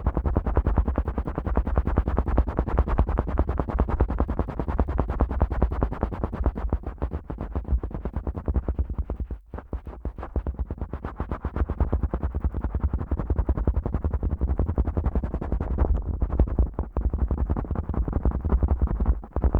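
Fingertips pushed rapidly in and out of the ear canals of a Neumann KU100 dummy-head microphone: a fast run of thumps and rubbing with a strong low boom. There are brief pauses about halfway and near the end.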